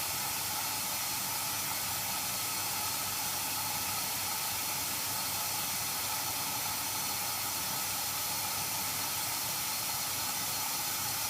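Hoover Nextra HNWL7146 washer dryer taking in water through its inlet valve at the start of a cotton prewash: a steady hiss of water filling the drum.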